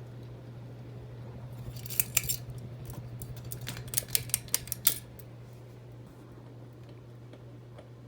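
Harbor Breeze Armitage II ceiling fan running on the floor, its motor giving a steady low hum. Sharp metallic clicks and rattles come in a short cluster about two seconds in and again in a quicker run of about half a dozen between four and five seconds.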